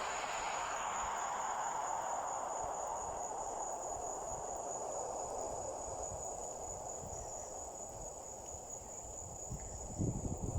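Insects trilling: one steady, unbroken high-pitched tone, over a broad rushing hiss that slowly fades. Low rumbling bumps come in near the end.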